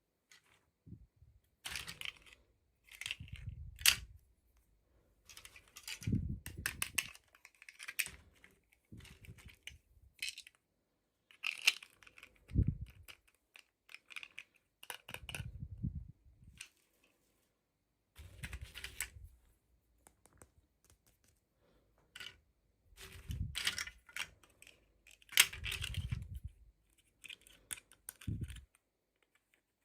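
Hands unboxing toys in short bursts of clicks, crackling and rustling, with a few dull knocks, with brief pauses between.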